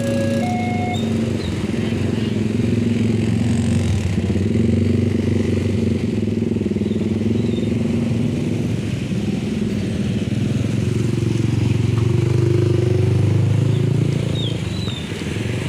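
A level-crossing warning chime, alternating between two tones, stops about a second in. Then engines of passing motor vehicles, mostly motorcycles, run steadily as a loud rumble through to the end.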